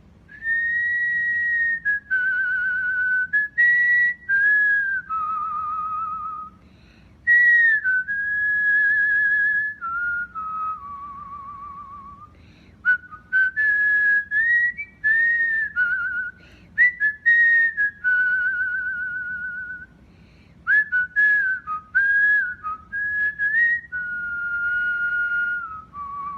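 Cockatiel whistling its song: a string of clear held whistled notes that step up and down, several with a fast warble, broken by short sharp chirps.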